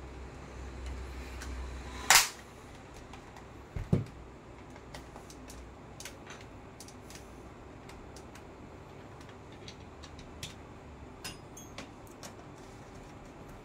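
Clicks and taps from handling small parts by hand. One sharp, loud click comes about two seconds in and two dull knocks follow near four seconds, then scattered faint ticks. A low hum stops at the loud click.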